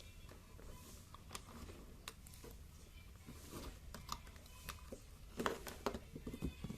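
Scattered small clicks and taps of objects being handled over a low hum, with a quick run of louder knocks about five and a half seconds in.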